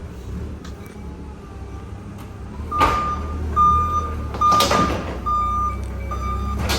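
Forklift reversing alarm beeping about once every two-thirds of a second, starting about three seconds in, over a steady low engine rumble, with two loud clanks as pallets are loaded into a box truck.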